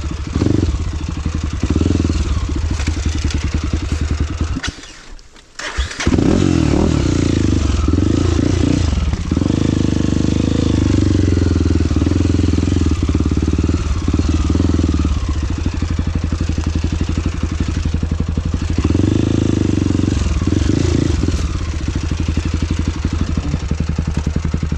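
Dirt bike engine running steadily. Its sound drops away for about a second near five seconds in, then the engine runs again.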